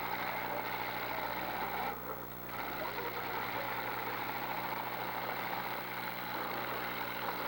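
Demolition derby car engines running and revving in the arena, heard as a steady, continuous din with a low hum underneath.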